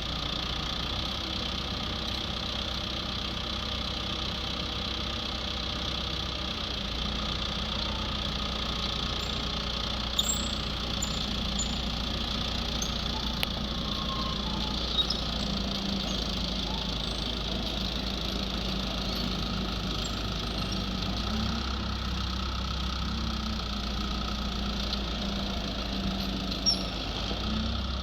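Skid steer engine running steadily, its low hum shifting now and then as it works, with a few brief clicks and knocks.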